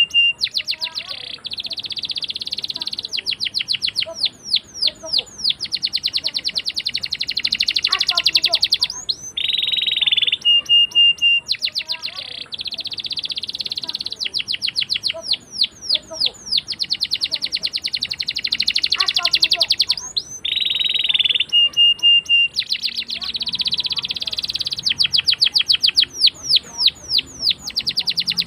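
Domestic canary singing a long rolling song: fast trills of rapid sweeping notes, a short held whistle, and dense buzzy rolls. The same song sequence repeats about every ten seconds.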